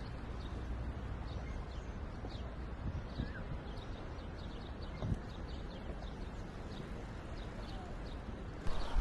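Small birds chirping, many short high chirps scattered over a steady low rumble, with one brief thump about five seconds in.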